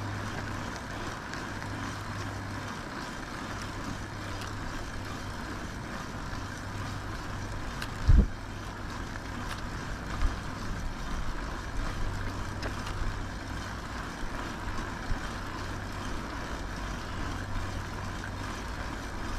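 Riding noise on a moving e-bike: wind and road rush with a steady low hum. A single sharp thump about eight seconds in.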